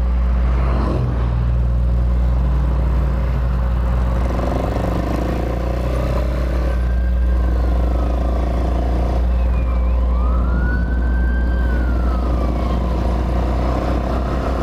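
Hawk 250 motorcycle engine running steadily under a heavy low rumble, while a distant emergency siren wails, rising and falling a couple of times through the middle and later part.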